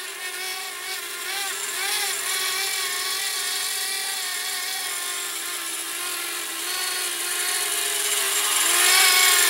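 Blade Inductrix Switch tiny-whoop quadcopter in flight, its small ducted motors and propellers whining. The pitch wavers up and down with the throttle, and the sound grows louder in the last couple of seconds.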